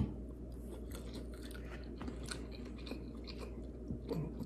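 Faint close-up chewing of a mouthful of shrimp, with small scattered wet smacks and clicks.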